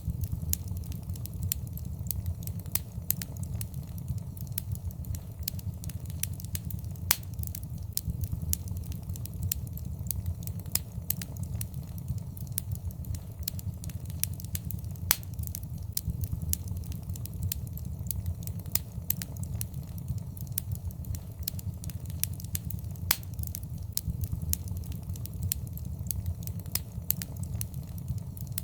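Wood fire in a fireplace crackling and popping, with irregular sharp snaps over a steady low rumble of burning.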